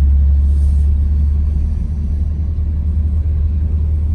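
Vehicle driving, a loud, steady low rumble of engine and road noise.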